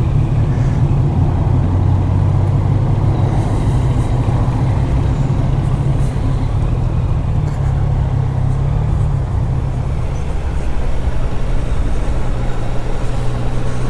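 Yamaha Niken's three-cylinder engine running steadily at low revs on its stock exhaust while riding in city traffic, with wind and road noise over it; the hum eases a little about ten seconds in.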